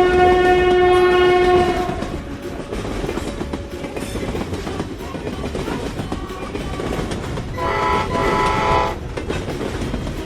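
Train sound effects: a horn sounds and cuts off about two seconds in, followed by the rumble and clatter of a running train on the rails. A second, shorter horn blast comes about eight seconds in.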